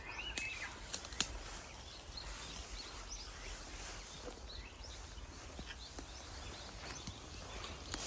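Outdoor ambience: a steady hiss with a few faint bird chirps, and a single sharp click about a second in.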